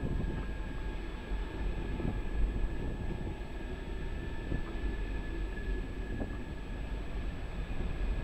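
SNCB double-deck passenger train passing slowly alongside the platform: a steady rumble of wheels on rail with a faint high whine and a few light clicks.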